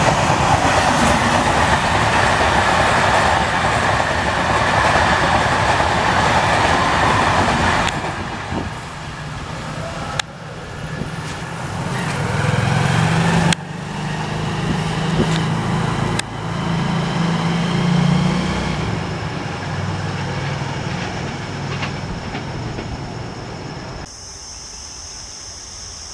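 Electric MEMU multiple-unit trains running on the track. First a loud, steady rush as a train runs along close by. Then, after sudden changes about eight and ten seconds in, approaching trains with a low hum and wheel noise, fading quieter near the end.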